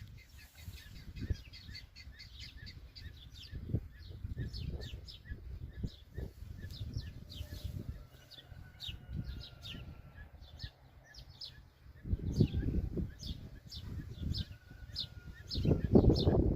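Songbird chicks cheeping: a rapid, continuous stream of short, high, downward-sliding chirps, the begging calls of hungry young birds. Under them is a low rumble that grows louder about twelve seconds in and again near the end.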